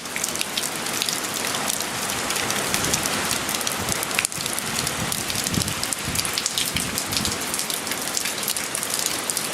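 Steady hurricane rain falling and spattering on surfaces, with many small drop ticks through it.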